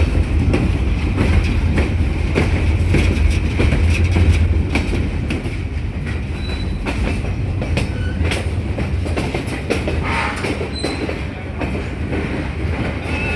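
Passenger train rolling along the track, heard from aboard: a steady low rumble with wheels clicking over the rail joints, and a few brief high squeals from the wheels about midway.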